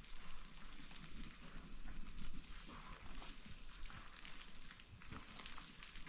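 A fire crackling faintly, with a steady hiss and scattered small pops.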